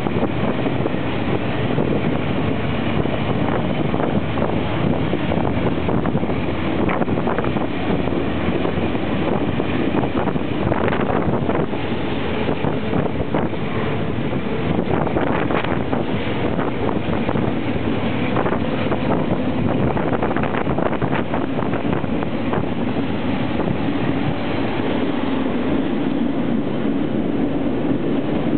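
Diesel-hauled passenger train running, heard from the open doorway of its baggage car: a steady rumble and rattle of wheels on rails with wind across the microphone, and a run of clicks and knocks in the middle.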